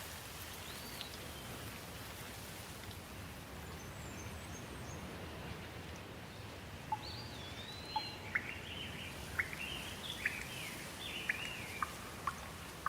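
Steady rain falling, with a songbird calling over it: a single whistled note about a second in, then from about halfway on a run of quick chirps and rising-and-falling whistles.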